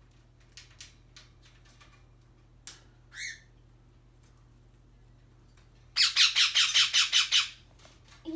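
Pet parrot giving a harsh, rapid rattling squawk of about a second and a half, starting about six seconds in. It is preceded by a few faint clicks and a short rising chirp.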